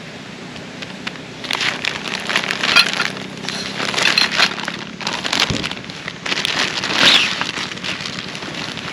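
Irregular rustling and crackling handling noise in several bursts, starting about a second and a half in and loudest near the end.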